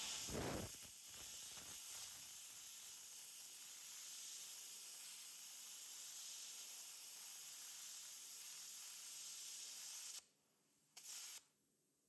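Plasma cutter hissing steadily for about ten seconds as it cuts through the head of a steel frame rivet, then cutting off abruptly, followed by one short burst of hiss about a second later.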